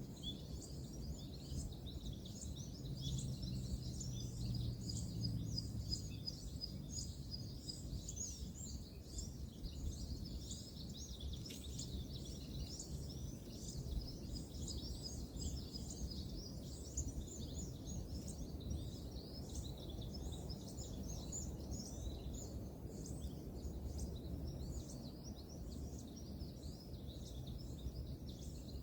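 Many birds chirping and calling continuously over a steady low rumble of distant road traffic.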